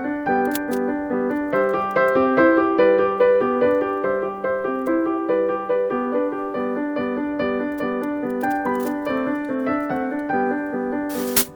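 Background piano music: a steady stream of notes over a low bass line. A brief hiss comes near the end as the music dips.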